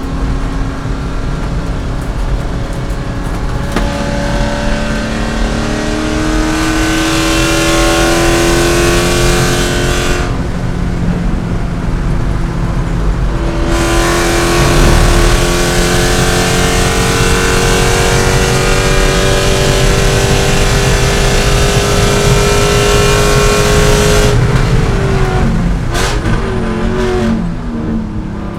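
C5 Corvette's 5.7-litre V8 under racing load: the revs climb, drop off for a few seconds around ten seconds in, then climb again in a long, steady pull. Near the end the revs fall in quick steps as the car downshifts.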